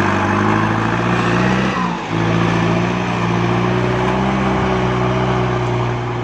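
Kubota MU5702 tractor's four-cylinder diesel engine running steadily. It briefly dips in pitch and loudness about two seconds in, then picks back up.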